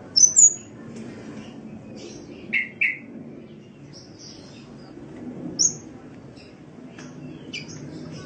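Sunbird (the Indonesian cage-bird 'kolibri') chirping in short, sharp, high notes: two loud chirps right at the start, a pair of lower notes about two and a half seconds in, and another high chirp past the middle, over a low steady background hiss.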